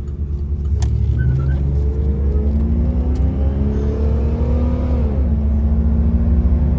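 1990 Cadillac Sedan Deville's 4.5-litre fuel-injected V8 accelerating hard on the highway, heard from inside the car over a low road rumble. The engine note climbs steadily, drops quickly about five seconds in as the automatic transmission shifts up, then settles into a steady pull.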